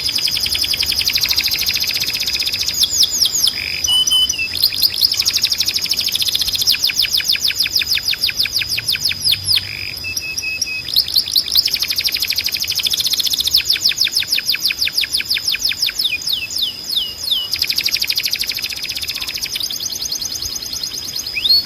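Canary singing: long runs of fast, rapidly repeated trill notes, broken by short pauses and a few brief lower whistled notes, over a steady high held note.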